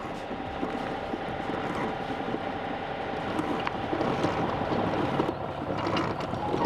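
Sailboat's engine running steadily while motoring under way, with a constant hum and the rush of water; it grows slightly louder toward the end.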